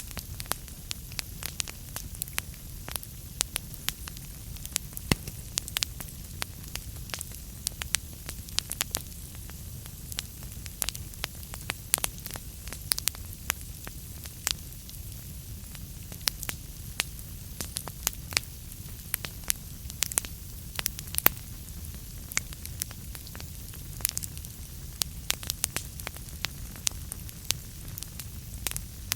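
Wood fire burning in a fireplace, logs crackling: frequent irregular sharp pops and snaps over a steady low rumble and soft hiss.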